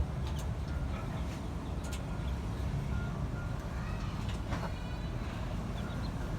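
A steady low rumble with a few faint, short chicken calls and peeps over it.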